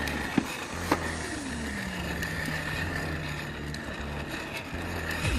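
Pink battery-powered ride-on toy motorcycle running, its electric motor humming steadily and its plastic wheels rolling over the ground. Two sharp knocks half a second apart near the start, and a tone sliding down in pitch about a second in.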